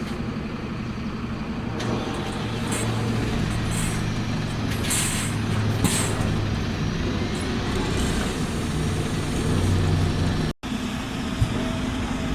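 Bus engine running with a steady low hum and several short hisses of air from the brakes. The sound cuts out for an instant near the end, then a similar vehicle hum carries on.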